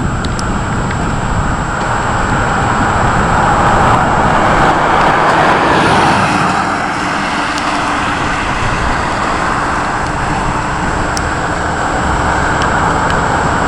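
Steady rushing storm noise with a low rumble underneath, swelling slightly about halfway through.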